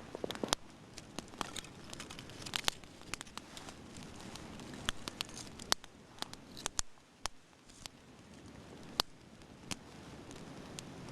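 Small campfire of birch bark and dry kindling crackling, with sharp, irregular snaps and pops over a faint hiss.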